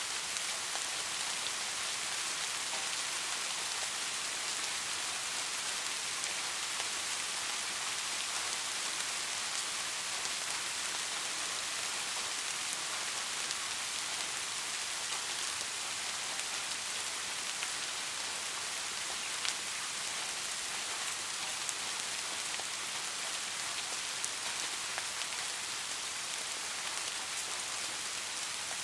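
Steady rain falling, an even hiss of many small drops pattering on a surface, with a slightly louder single drop here and there.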